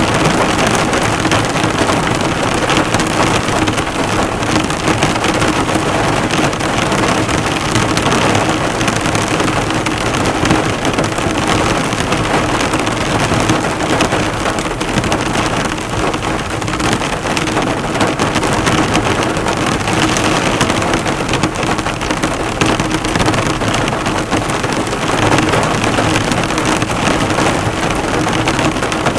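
Heavy rain drumming steadily on a car, the drops bouncing off the bonnet in a dense, even patter.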